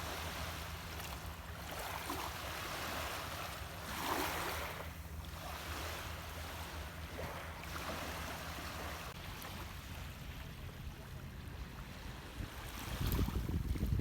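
Rough, wind-driven lake waves breaking and washing onto the shore, surging every couple of seconds. Near the end a louder low rumble comes in.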